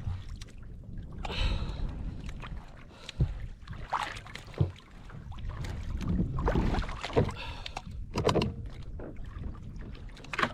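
Water and wind noise around a plastic fishing kayak, a steady low rumble, with scattered irregular knocks and clicks from the hull and fishing tackle.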